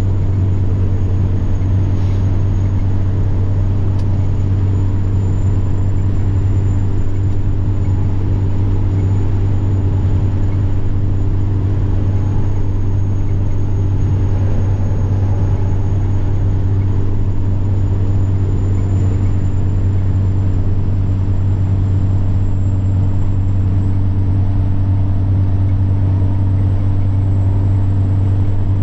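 Semi-truck diesel engine running at a steady cruise with a low drone and a thin, high turbocharger whine that drifts slightly in pitch.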